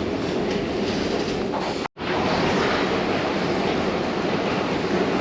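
Steady, loud rumbling noise of a subway station, typical of a train running nearby, with a sudden brief dropout about two seconds in.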